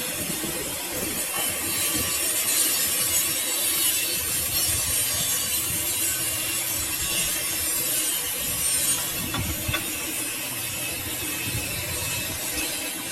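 Metal machining on a shaft: a steady scraping, grinding noise of cutting work.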